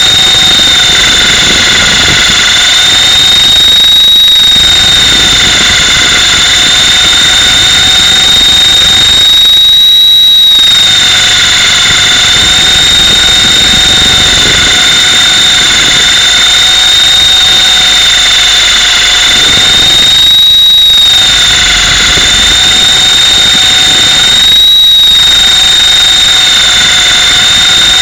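Mini Titan E325 electric RC helicopter running, heard from a camera mounted on the helicopter: a loud, steady high-pitched whine from the electric motor and drive gears over a rushing rotor noise. The pitch wavers slightly, and the low rushing drops out briefly four times.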